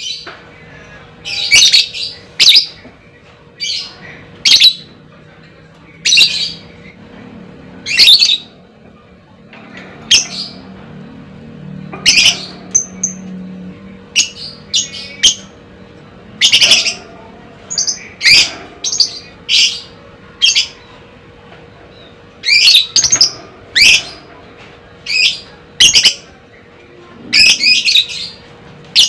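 Lovebird calling in short, high-pitched chirps and squawks, about twenty of them at uneven gaps, some in quick clusters, over a faint steady hum.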